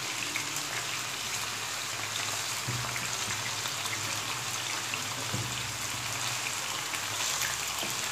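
Chicken seekh kababs shallow-frying in hot oil in a non-stick pan: a steady sizzle dotted with many small crackles and spits.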